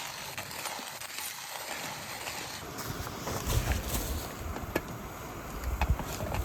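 Coffee beans being ground in a coffee grinder, a steady grinding noise with small clicks, and a few low thumps about halfway through and near the end.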